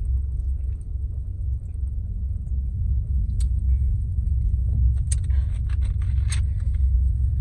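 Car engine idling, heard from inside the cabin as a steady low rumble, with a few light clicks in the second half.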